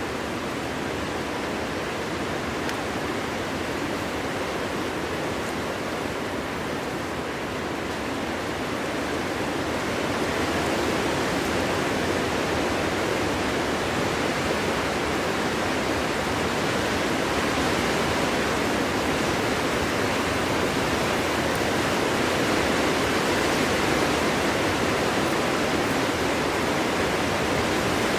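Strong wind blowing through a forest, a steady rushing without gusts or breaks that swells louder and hissier about a third of the way through and stays there.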